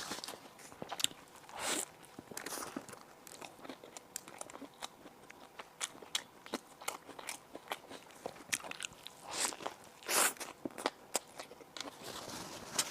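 Close-miked eating: crunchy bites into crispy baked bread and chewing, with many small crackles and a few louder crunches, the loudest about ten seconds in.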